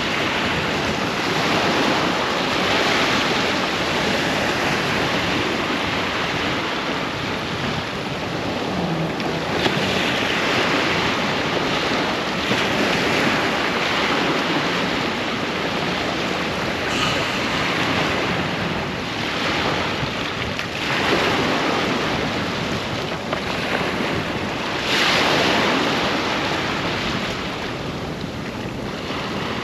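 Ocean waves breaking and washing up a sandy beach: a steady wash of surf that swells and eases every few seconds. Wind rumble on the microphone runs underneath.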